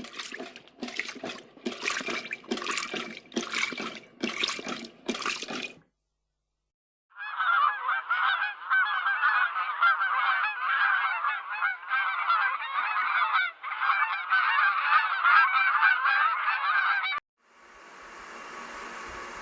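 Birds calling: a run of about seven separate honking calls, then, after a short gap, a dense chorus of many birds calling over one another. A steady hiss starts near the end.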